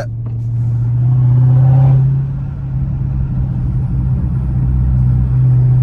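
Exhaust drone of a Dodge Charger Hellcat Redeye's supercharged 6.2-litre V8 with its mid-mufflers deleted: a steady low drone while cruising, swelling briefly about a second in and easing off again.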